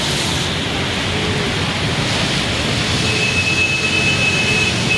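Steady hiss of rain. About three seconds in, a thin steady high tone joins it for about two seconds.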